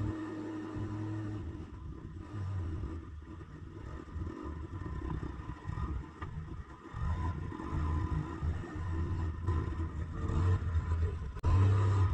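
Forklift engine running under load, its rumble rising and falling unevenly as it is driven onto soft, boggy ground.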